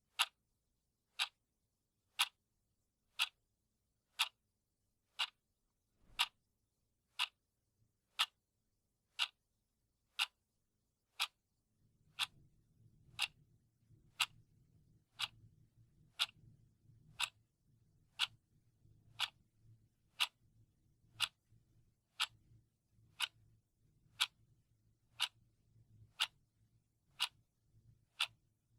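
Clock ticking steadily, one sharp tick a second, marking off the seconds of a countdown. A faint low hum comes in under the ticks about twelve seconds in.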